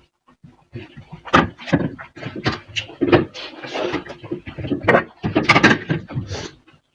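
People eating fast, chewing and gulping big mouthfuls of rice with loud breathing between bites.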